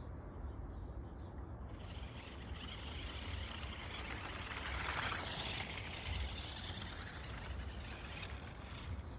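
Radio-controlled buggy driving over the course. Its noise builds to a peak about halfway through, then fades, as it passes close and moves away.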